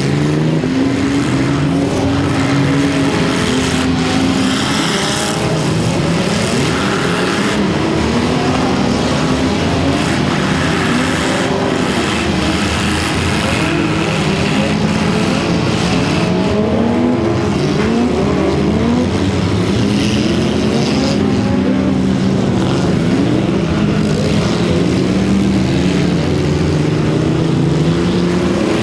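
Many demolition derby cars' engines revving at once, their pitches rising and falling over one another.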